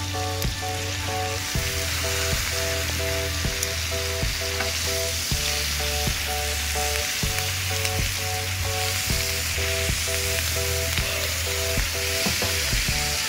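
Pork belly and kimchi sizzling steadily on a hot seasoned cast-iron cauldron lid over a wood fire. A few clicks of tongs and scissors against the metal come through as the meat is turned and cut.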